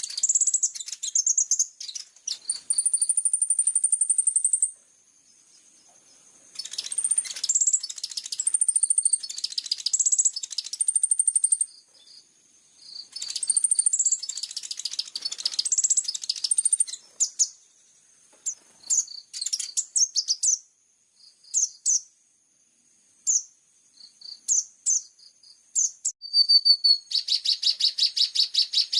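Small songbird singing a high-pitched song of rapid chirps and whistled notes in bursts of a few seconds with short pauses, breaking into a fast, even trill near the end.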